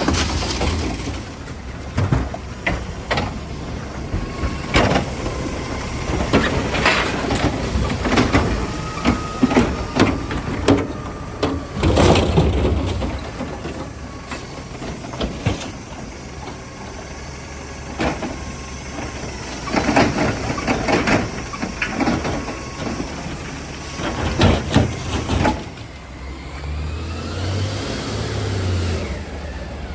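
Garbage truck at work, its engine running under repeated bangs and clatter of trash being loaded. A whine rises near the end.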